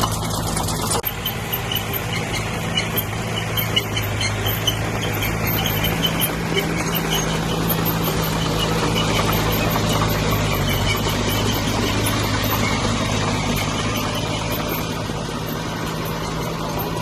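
Heavy diesel engine of earthmoving machinery running steadily under load, with short, repeated high squeaks over it in the first half.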